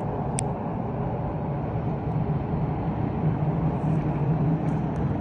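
Motorcycle running at a steady cruise, its engine hum holding one pitch under a constant rush of road and wind noise. A brief high squeak sounds about half a second in.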